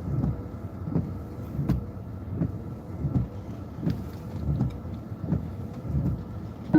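Vehicle cabin noise: a steady low hum with a soft, low thump repeating about every three-quarters of a second.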